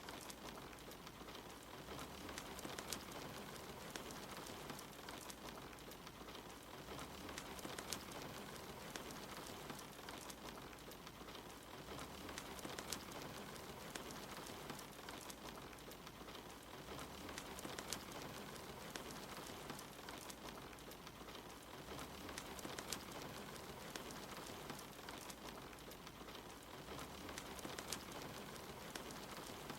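Steady soft rain mixed with a crackling wood fire: an even hiss of rain with frequent small, sharp pops and crackles scattered through it.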